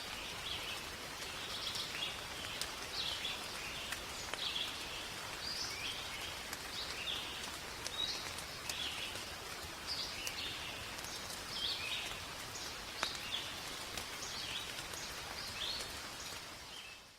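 Rain falling in a forest as a steady hiss with scattered drop ticks, while birds give short chirps again and again, about one every second. The sound cuts off suddenly at the end.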